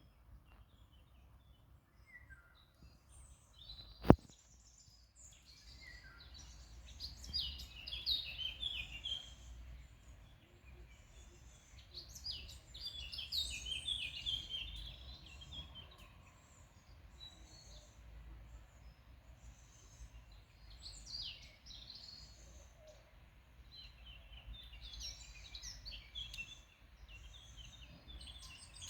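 Birds chirping and singing in several bouts of quick high calls, over a low steady background rumble. A single sharp click about four seconds in is the loudest sound.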